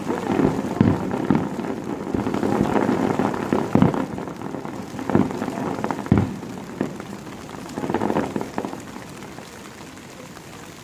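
Rain pattering steadily, with several dull bangs of firework bursts over it; the noise dies down near the end.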